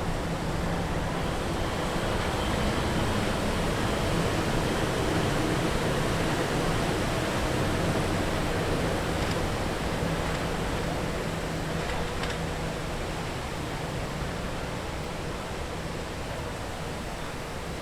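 Heavy rain from Hurricane Ian falling steadily, heard as an even hiss that swells slightly midway and eases a little near the end.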